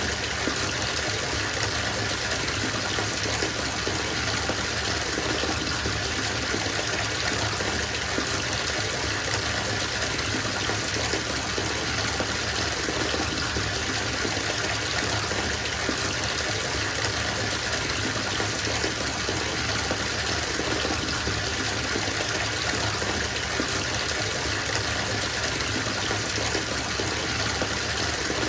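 Bathtub filling from the tap: water gushing steadily into the tub.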